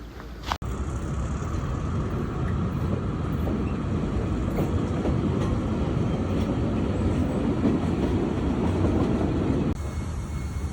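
A train running on the rails, a steady rumble and clatter of wheels on track. The sound cuts out briefly about half a second in.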